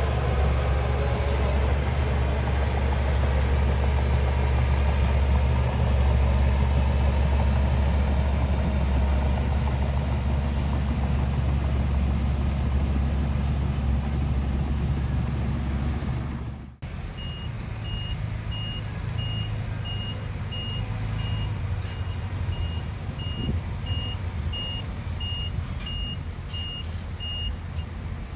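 Heavy diesel earthmoving machinery running loudly and steadily. After an abrupt cut about halfway through, the engine is quieter and a high-pitched reversing alarm beeps steadily, about once a second.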